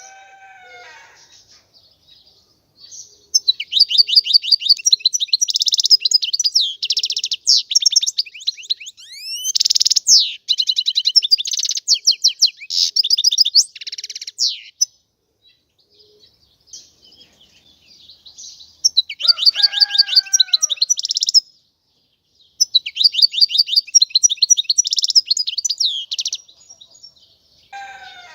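European goldfinch singing: fast, high twittering and trilling phrases in three long bouts separated by short pauses, with a few lower sliding notes mixed in during the second bout.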